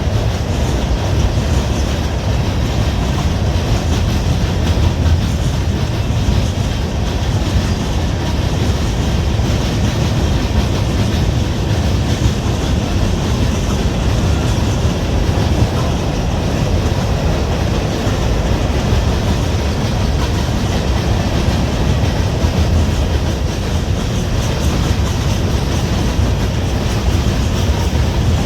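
Freight train cars rolling steadily past: a loud, continuous rumble of steel wheels on the rails.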